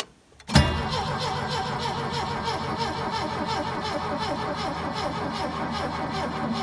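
Starter cranking the Bobcat 632 skid steer's 1.9-litre Ford Pinto four-cylinder engine on full choke, turning it over with a fast even beat without it catching. It starts suddenly about half a second in. The battery is weak and giving up.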